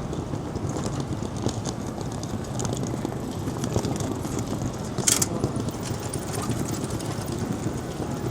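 Busy pedestrian street ambience: a steady crowd hubbub with many footsteps clicking on the pavement, and one short, sharp hiss about five seconds in.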